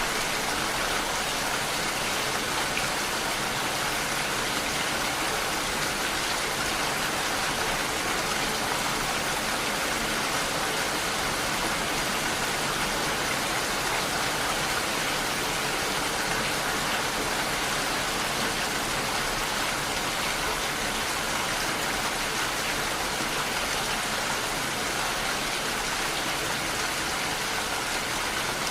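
Rain falling steadily and evenly, with no thunder.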